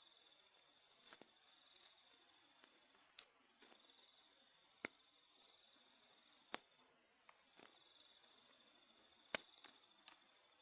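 Insects trilling in the forest: a steady high-pitched trill that drops out briefly twice and starts again. Three sharp clicks stand out over it, plus a few fainter ones.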